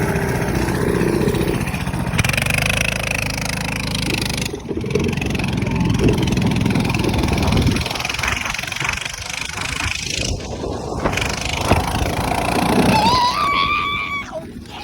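Minibike's small engine running under way, its sound rising and falling as it is ridden.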